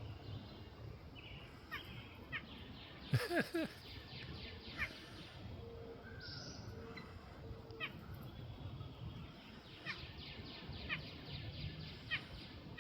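Birds chirping: short sharp chirps, each a quick downward sweep, scattered irregularly, with one louder, harsher call about three seconds in.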